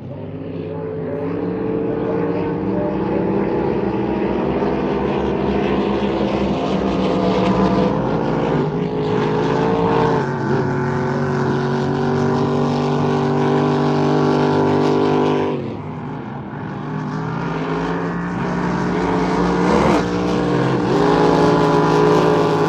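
Racing motorboat engines running hard, a loud steady drone whose pitch shifts a little as the throttles change; it drops briefly about two-thirds of the way through, then picks up again.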